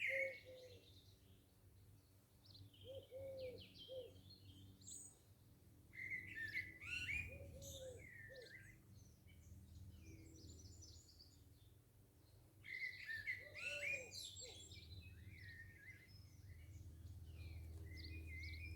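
Garden birds singing: phrases of quick, high chirping and warbling song that come in three bursts several seconds apart, with shorter, lower calls underneath and a faint low hum.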